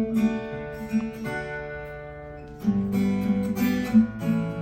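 Acoustic guitar strummed, playing the chordal introduction to a folk song; the chords ring out and thin for a moment in the middle, then the strumming comes back louder.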